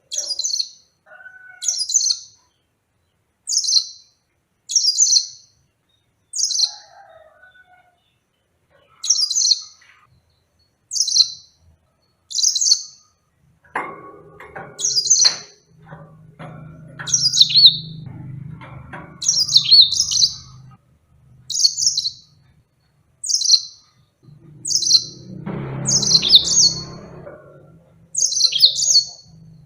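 Yellow-fronted canary singing a short, high, chirpy phrase over and over, about once every second or so. A low background rumble comes in around the middle and again near the end.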